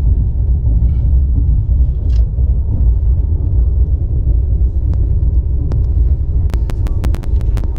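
Steady low rumble of a passenger train running on the track, heard from inside the coach. Near the end a fast, even run of sharp clicks starts, about six a second.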